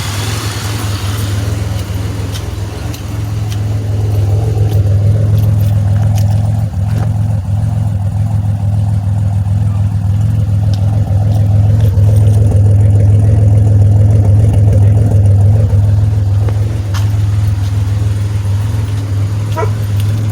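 2007 Pontiac Grand Prix GT's engine, fitted with an aftermarket cam, running steadily now that it starts again after a new fuel pump relay and spark plugs. It gets louder about four seconds in and again about twelve seconds in.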